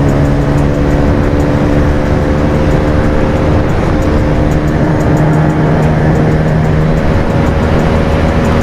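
Bajaj Pulsar 220F's single-cylinder engine running at a steady cruising speed through an Akrapovic exhaust, its pitch holding nearly constant.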